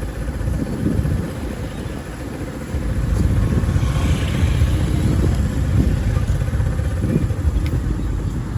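Street traffic: a steady low rumble of motorbike engines that swells for a few seconds in the middle.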